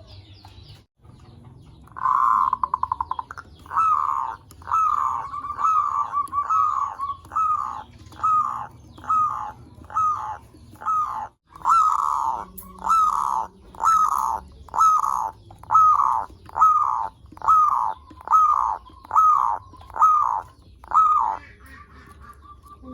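Zebra dove (perkutut) cooing. A short rapid trill comes about two seconds in, then a long run of evenly spaced, clipped coo notes at about one a second, stopping shortly before the end.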